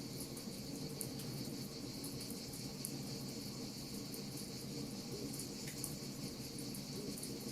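Wood fire crackling, with scattered small sharp pops over a steady high-pitched hiss and a low rumbling bed.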